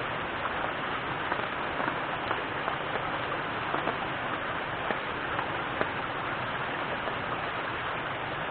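Steady rain falling, a constant hiss with many small drop hits scattered through it.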